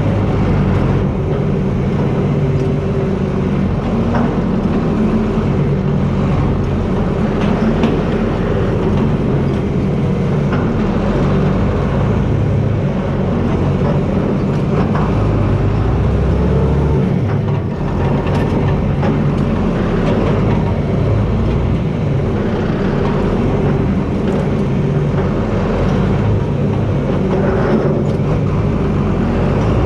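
John Deere 4320 tractor's six-cylinder diesel engine running steadily.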